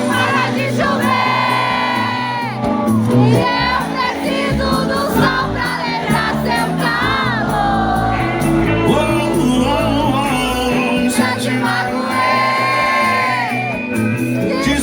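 Live sertanejo music from a concert sound system: sung vocals over the band, with the crowd singing along and shouting.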